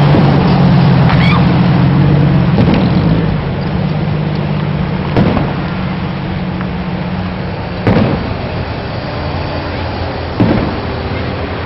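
Fireworks going off: four sharp bangs about two and a half seconds apart, over a steady rushing background. A low engine hum fades out about three seconds in.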